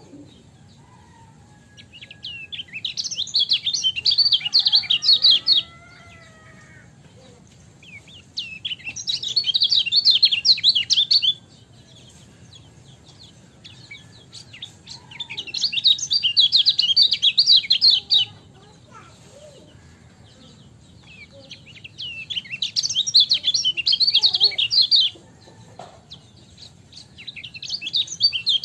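Kecial kuning (a yellow white-eye) singing in bouts of rapid, high chirping notes, each about three seconds long, repeated about every six to seven seconds. The song is used as a tutor recording for caged birds.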